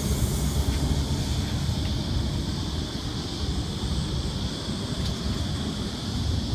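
Sydney Trains V-set electric double-deck train, steady low rumble with a hiss as it runs at the platform.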